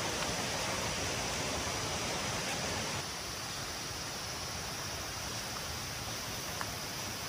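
A steady rushing noise with no distinct events, a little quieter from about three seconds in.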